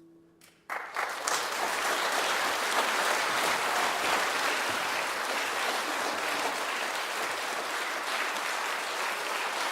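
The last held chord of the accompaniment fades away. Under a second in, audience applause breaks out and goes on steadily.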